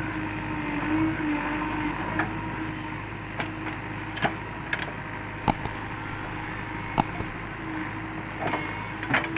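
Backhoe loader's diesel engine running steadily, with scattered sharp knocks and clicks about every half second to second.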